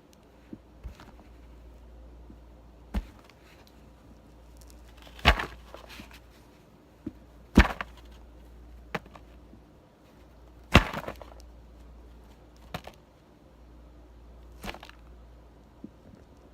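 Bar of soap being cut with a plastic knife: sharp, crackly snaps as the blade breaks through the soap, about nine separate cuts spread out, the loudest three in the middle.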